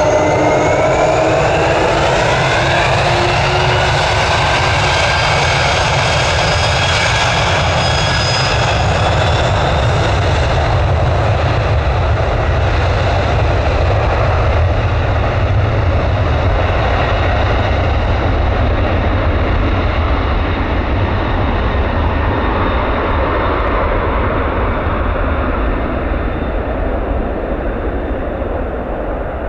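Jet airliner's engines running loud: whining tones rise over the first few seconds over a steady deep rumble. The high-pitched part fades gradually through the second half as the aircraft draws away.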